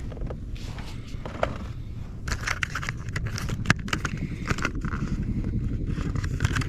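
Wind rumbling on the microphone, with a dense run of scrapes and clicks from about two seconds in.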